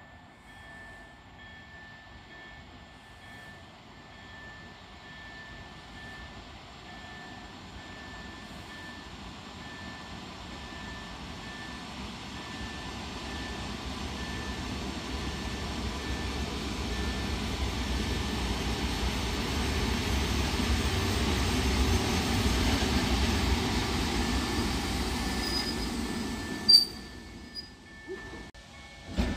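EN71 electric multiple unit arriving at a station, its running noise on the rails growing steadily louder as it approaches. A brief high squeal and a single sharp clank come near the end as it comes to a stop, and then the noise drops away.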